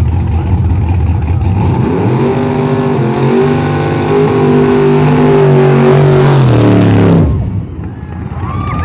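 A car's engine is revved hard during a burnout. It rumbles low, then climbs about two seconds in and holds at high revs with small rises and dips for several seconds. Near the end the revs drop off sharply.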